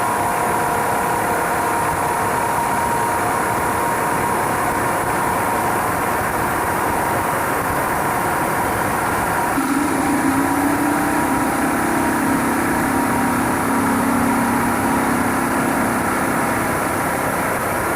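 A woodworking power tool's motor running steadily. About ten seconds in its tone changes to a lower hum.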